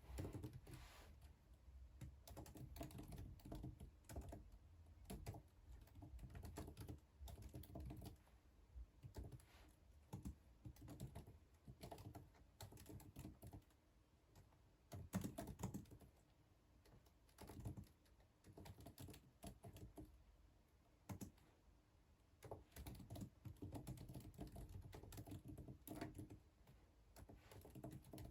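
Typing on a computer keyboard: quiet runs of key clicks, broken by a few short pauses.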